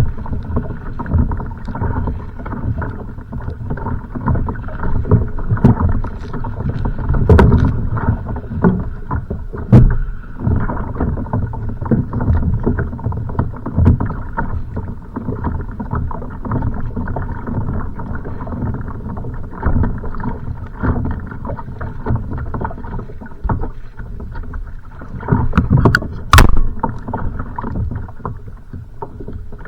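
Choppy wind-driven waves slapping and splashing against a kayak's hull, with gusts of wind rumbling on the microphone. A few sharp knocks against the boat, one about 7 seconds in, one about 10 seconds in and two close together near the end.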